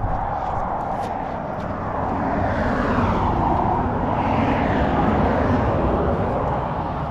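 A road vehicle passing by, its tyre and engine noise swelling to a peak about five seconds in and then fading away.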